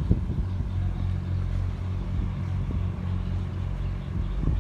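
Tug's diesel engine droning steadily at low revs while towing a loaded barge, with a couple of brief knocks.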